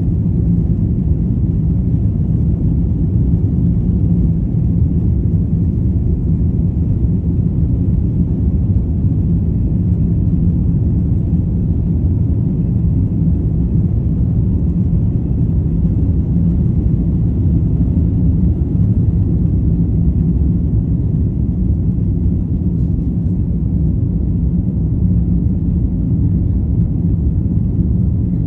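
Airbus A350-1000 cabin noise: a steady low rumble of the Rolls-Royce Trent XWB-97 engines and airflow, heard from inside the cabin, with a faint steady hum under it.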